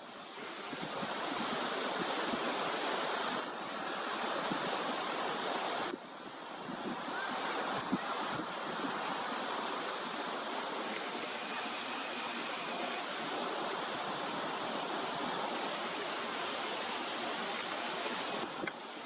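Wind rushing over the microphone, a steady noise that drops off abruptly about six seconds in and then builds again.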